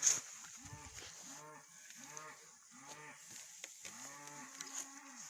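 Cattle mooing: a run of about six short, low moos, then one longer moo near the end.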